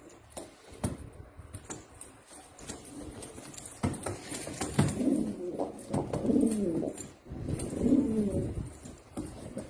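Domestic pigeons cooing: a series of low, rolling coos in the second half, with scattered sharp clicks and taps.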